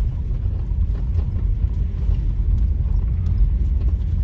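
Steady low rumble of a vehicle driving along a road, with faint light knocks over the top.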